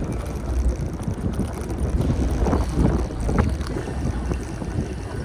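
Wind rumbling steadily on the microphone of a camera riding along on a moving bicycle, with a few brief street sounds about halfway through.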